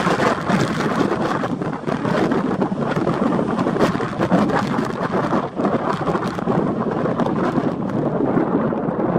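Gale-force storm wind buffeting the microphone: a continuous loud rumble broken by many sudden gust thumps.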